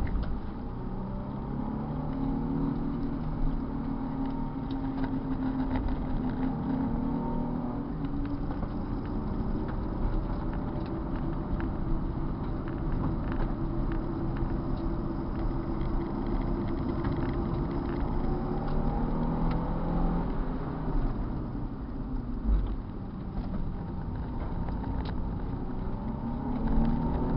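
Car engine heard from inside the cabin while driving, its pitch climbing under acceleration, holding, then dropping off about two-thirds of the way through before rising again near the end.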